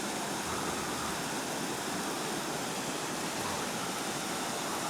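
Steady rush of water from a small creek waterfall.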